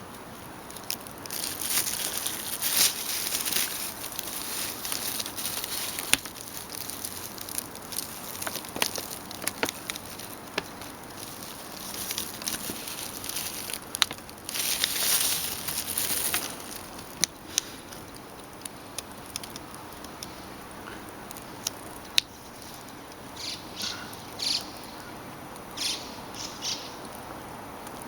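Bursts of rustling and wing flapping from white wagtail nestlings in their nest, loudest twice in the first half, with a few short high chirps near the end.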